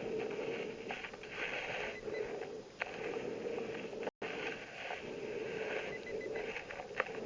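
Muffled underwater sound picked up by a camera beneath the surface: a soft hiss that swells and fades in repeated waves, with a few sharp clicks.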